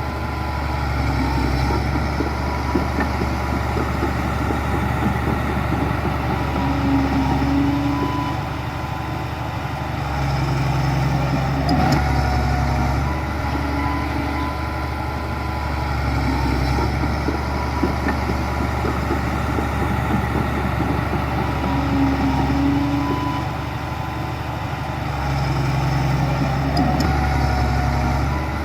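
Diesel engine of a heavy earthmoving machine running steadily, swelling louder and easing off again every few seconds as it works under changing load.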